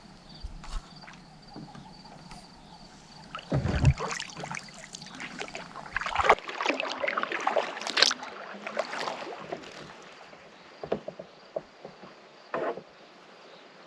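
Kayak paddle strokes dipping and splashing in calm lake water, several irregular strokes, followed by quieter drips and a few light knocks.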